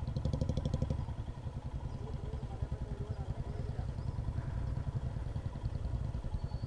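Motorcycle engine running steadily while riding, with a fast, even low-pitched pulsing.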